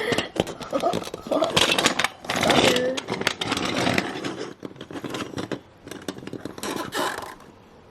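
Engine noises made by mouth for toy racing cars: rough revving sounds mixed with clicks and scrapes of small plastic cars being handled.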